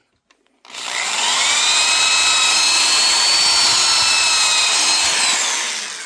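Power drill spinning up with a rising whine about half a second in, running at steady high speed for about four seconds, then winding down near the end, drilling through plexiglass.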